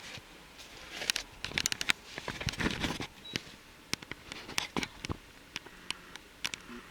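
Irregular close clicks, taps and rustling, thickest about one to three seconds in: handling noise right at the microphone.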